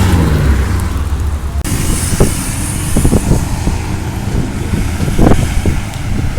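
Car engine running with a heavy low rumble. It changes abruptly about one and a half seconds in, then continues with irregular short pops and knocks.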